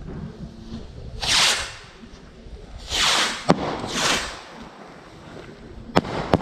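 Fireworks going off: three short hissing bursts with sharp cracks, one about halfway through and two close together near the end.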